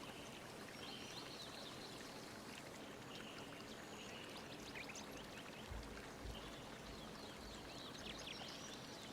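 Faint, steady rushing of flowing water, like a stream or waterfall ambience, with a few faint high chirps over it.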